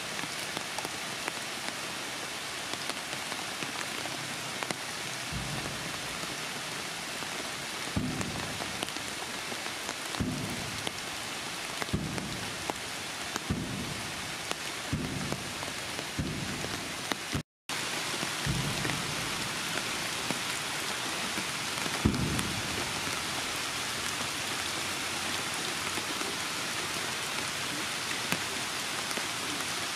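Heavy rain falling steadily. About nine short, dull low thuds sound over the middle of the stretch, and the sound cuts out for an instant about halfway through.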